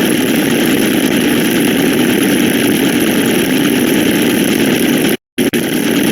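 A loud, steady, dense noisy sound effect that cuts off abruptly about five seconds in, comes back almost at once, and stops again near the end.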